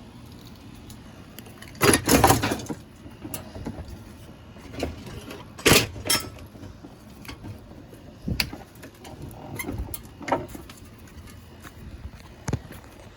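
Ceiling fan being dumped into a trash can: a handful of separate knocks and clattering hits. The loudest come about two seconds in and again around the middle, with a few lighter knocks after that.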